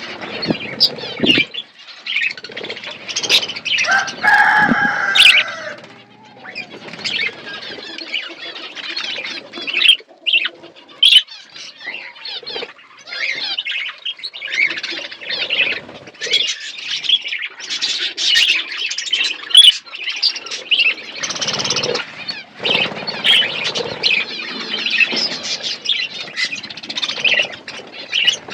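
Budgerigars chattering and warbling, with a steady run of quick chirps and twitters and a louder, longer call about four seconds in.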